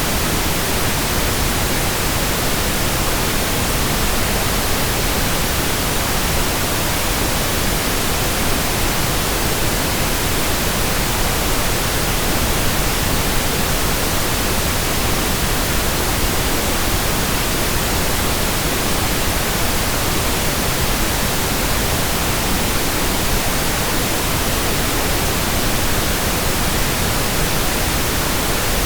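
Steady synthetic pink noise: an even, unbroken hiss with a fuller, deeper tone than white noise.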